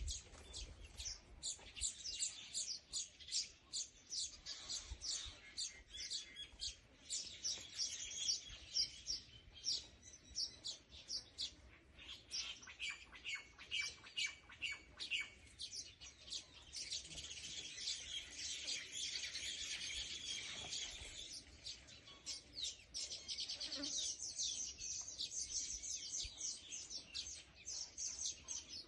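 Small birds chirping: many rapid, high-pitched chirps, overlapping and continuous.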